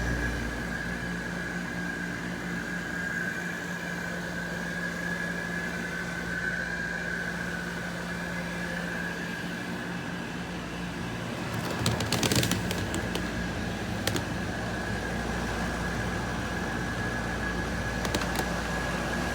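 Window air conditioner switched back on, its compressor and fan coming up at once and then running with a steady hum and a thin steady whine. A few clicks and rattles come about 12 seconds in, and again briefly near the end.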